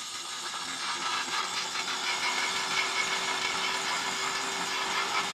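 Steady, dense mechanical noise of running machinery, with a faint steady whine above it.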